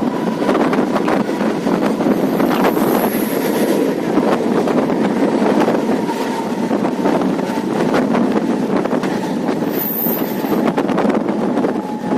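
Sewagram Superfast Express passenger train rolling out of the station: a steady rumble of wheels on rails with scattered clacks, and wind buffeting the microphone.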